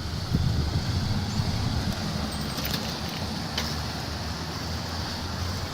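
Steady low rumble of city street traffic heard while riding a bicycle, with a few faint light clicks.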